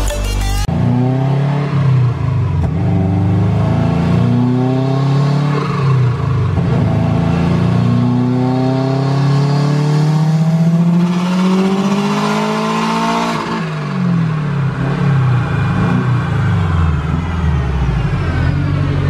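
Turbocharged Subaru Impreza flat-four on a chassis dyno making a full-throttle pull: the engine note climbs steadily for about eleven seconds, then the throttle is closed and the revs fall away as it coasts down.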